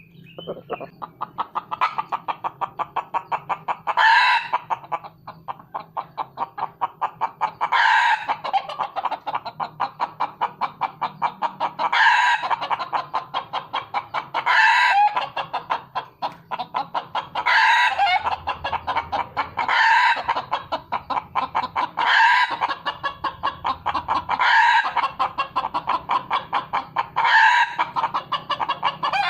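Red junglefowl clucking in a fast, even series of about five clucks a second, with a short, loud crow every few seconds: a lure call used to draw wild junglefowl in.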